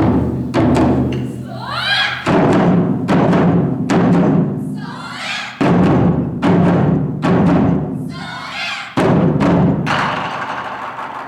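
Japanese taiko drums struck in heavy, loud unison hits in irregular groups, with rising shouted calls twice between strikes. The last strike rings out and fades near the end.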